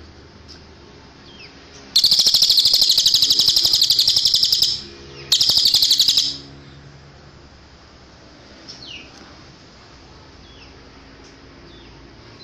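Cililin bird singing: a loud, rapid high trill about two seconds in, lasting nearly three seconds, then a second shorter trill after a brief break. Faint short, high chirps sound before and after.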